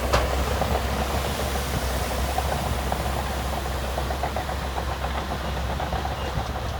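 Diesel engine of heavy earthmoving equipment running with a steady low rumble, a sharp knock just after the start, and light rapid clattering through the middle.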